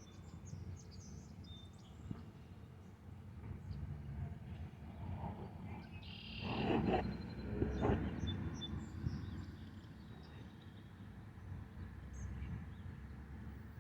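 Outdoor pondside ambience: a steady low rumble with faint, scattered bird chirps. A louder rush of noise swells up about six seconds in and fades after about two seconds.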